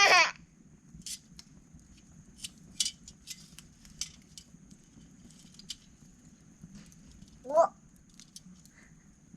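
A toddler's short high voice sounds twice, a brief squeal right at the start and a rising one near the end, with scattered light clicks and taps from the campfire and its tools in between.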